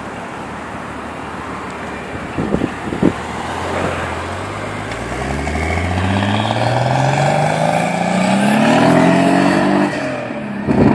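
Datsun 240Z's turbocharged 280ZX straight-six, carbureted blow-through at about 10 psi, pulling away with the engine pitch climbing steadily for several seconds, then dropping sharply near the end. Two short knocks sound a few seconds in.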